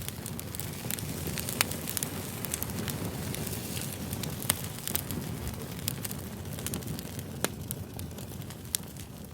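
Campfire burning: a steady low rush of flames with irregular sharp crackles and pops of burning wood, a few louder pops standing out.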